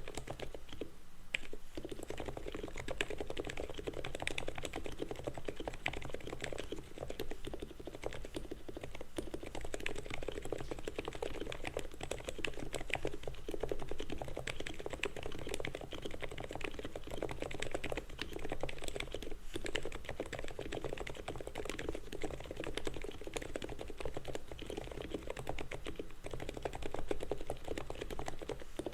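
Continuous fast typing on an ABKO HACKER K995P V3 mechanical keyboard with black 45 g switches, a steady stream of key strokes with a short pause about a second in.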